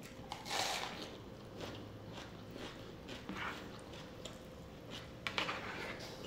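A crisp crunch as teeth bite into a whole raw onion about half a second in, followed by crunchy chewing in short, spaced bursts, with a few louder crunches near the end.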